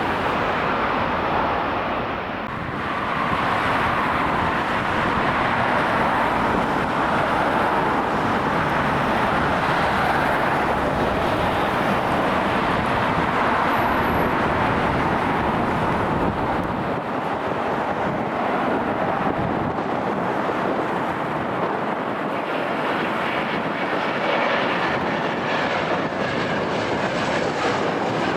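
Jet airliner engine noise: a loud, steady rushing sound whose deep rumble thins out about two-thirds of the way through.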